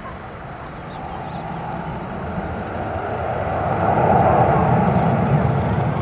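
Airbus A319's twin jet engines at takeoff power, growing louder as the airliner passes and peaking about four seconds in, then easing slightly.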